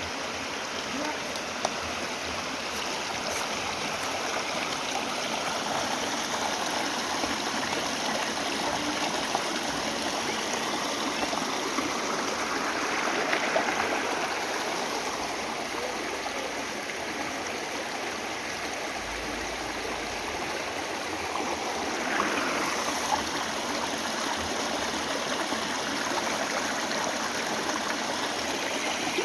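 Mountain valley stream rushing and gurgling over rocks, a steady flow with slight swells in level.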